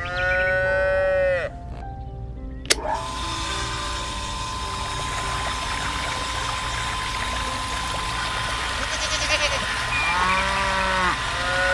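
A goat bleats at the start, and about three seconds in a mini water pump's small motor starts running with a steady whine over splashing water. A goat bleats again near the end.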